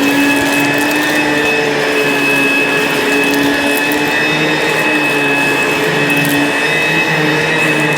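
ProTeam ProForce 1500XP upright vacuum cleaner running steadily on carpet, its motor giving a constant whine over a rushing of air, with a lower hum that comes and goes every second or so.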